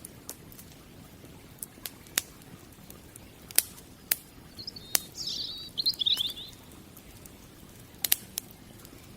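Wood fire crackling, with sharp pops every second or so over a low hiss, and a small bird chirping in a quick high run of notes about halfway through.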